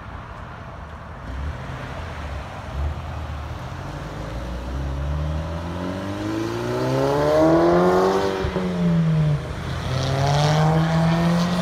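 A Volkswagen Golf GTI accelerating hard, its engine note climbing steadily, with a quick upshift about eight seconds in before it pulls up through the next gear.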